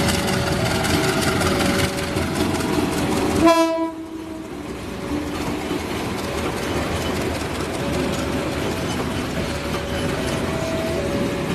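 Diesel-hauled passenger train passing over a level crossing, its wheels and coaches rumbling and clacking steadily. The crossing's warning signal alternates between two tones, and the locomotive gives one short, loud horn blast about three and a half seconds in.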